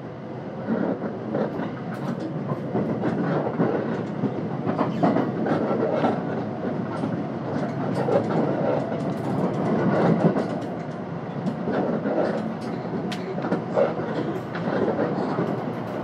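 Running noise heard inside a Hapi-Line Fukui 521-series electric train between stations: a steady rumble of wheels on rail with scattered sharp clicks.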